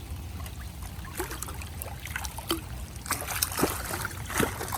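Water splashing and trickling, with irregular small clicks and knocks that come thicker in the second half, over a steady low rumble.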